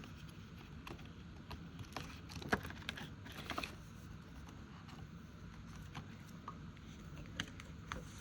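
Faint handling of paper budget envelopes: soft rustles and scattered light clicks and taps, the loudest about two and a half seconds in.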